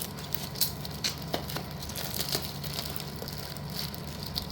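Scattered light clicks and faint rustling: hard slate pieces and their packaging being handled.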